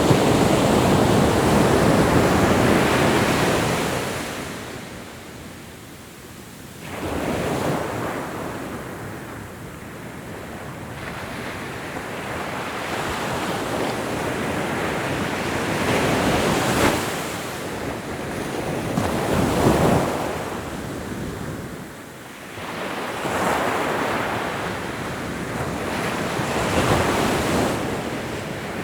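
Ocean waves breaking and washing onto a shore, the surf swelling and ebbing every few seconds with a louder crash near the start and a quieter lull in between.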